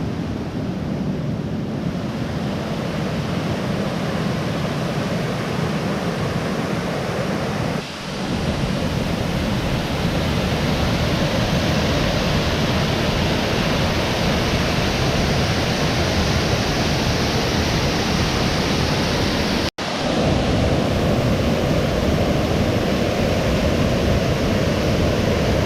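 Waterfall rushing, a loud steady wash of falling water. It breaks off for an instant twice, about 8 and 20 seconds in, and is a little louder after the first break.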